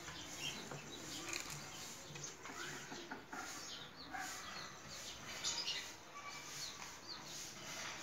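Faint, scattered bird chirps, short and irregular, against a quiet background.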